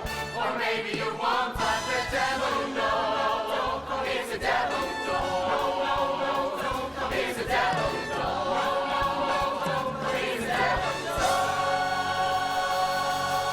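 A chorus of voices singing with band accompaniment, then holding one long chord over the last couple of seconds.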